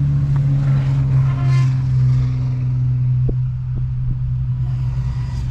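A motor vehicle engine running with a steady low drone, with two short knocks a little after three seconds in.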